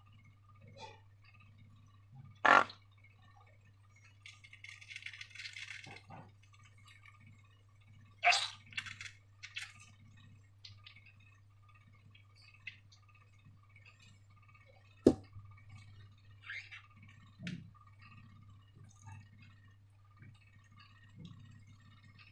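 Slime-making containers and tools being handled on a tabletop: scattered sharp clinks and taps, the loudest about two and a half, eight and fifteen seconds in, and a brief rustle around five seconds in, over a steady low hum.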